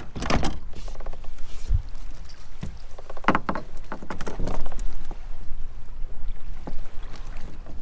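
Scattered knocks and clatter of handling aboard a kayak, over a steady low rumble of wind on the microphone.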